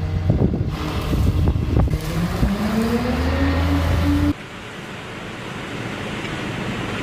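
A vehicle engine running with a rising whine as it speeds up, over rumbling wind noise. About four seconds in it cuts off suddenly to a steady rushing of wind.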